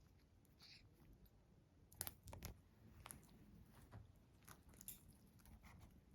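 Near silence with faint, scattered crunching clicks a second or so apart, the sound of something being chewed or bitten.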